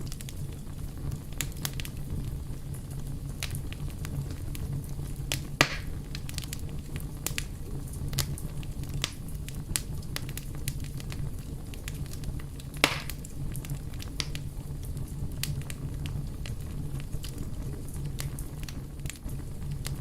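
Fire crackling steadily, with frequent small crackles over a low rumble of the flames and two louder pops, about five and a half seconds in and again about thirteen seconds in.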